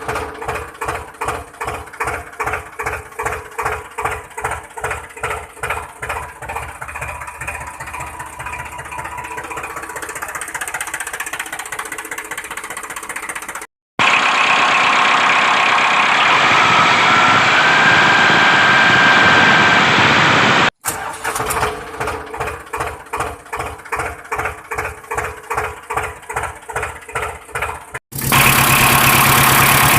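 Tractor engine chugging with a slow, regular beat, about two to three pulses a second, broken into spliced sections. Twice it cuts abruptly to a steadier, harsher engine run, in the middle and near the end.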